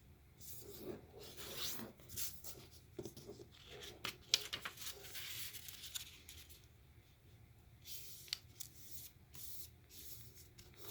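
A square sheet of paper being folded and creased by hand: irregular crinkling and rubbing strokes, with a sharp crackle a little after four seconds in.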